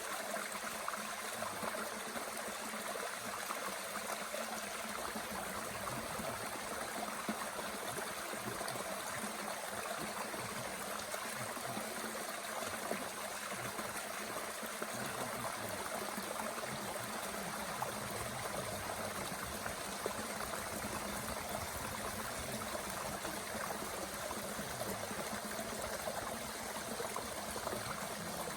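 Mountain stream running steadily, with a few faint pops from the small wood fire burning in a Bushbox stove.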